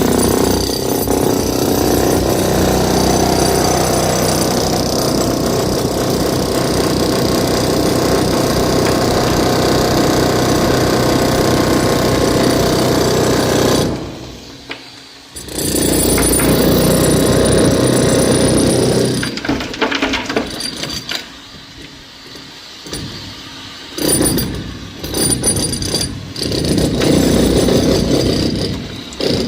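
Electric demolition hammer chiselling into reinforced concrete, running in long continuous bursts. It stops briefly about 14 s in, then runs in shorter bursts with pauses near the end.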